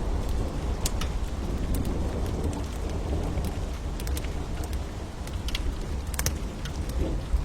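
Steady rain over a deep low rumble, with the irregular sharp pops and snaps of a crackling wood fire, a small cluster of them about six seconds in.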